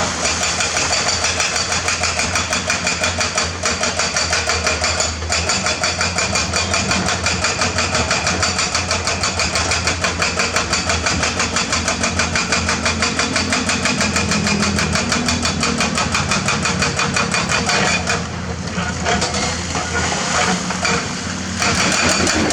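Heavy excavator at work: its diesel engine running hard with a fast, even clatter of about five beats a second. The sound eases briefly about eighteen seconds in, then picks up again.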